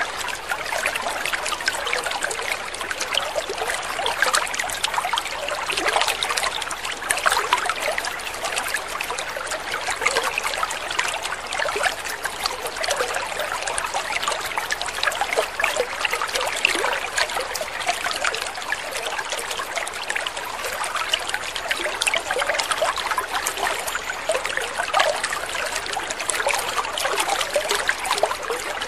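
Water trickling steadily, a continuous babble of many small splashes with no pauses.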